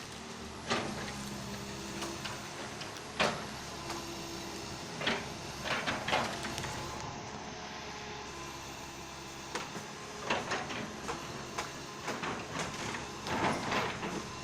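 Komatsu excavator's diesel engine running steadily, with irregular sharp cracks and knocks as the machine works at felling trees, the loudest about three seconds in and a cluster near the end.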